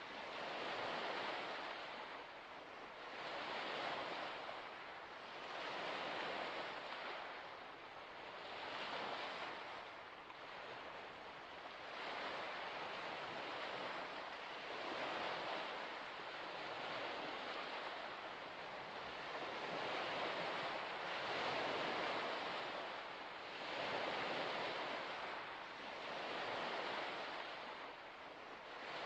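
Small waves breaking and washing on a shore, one swell of surf noise every two to three seconds.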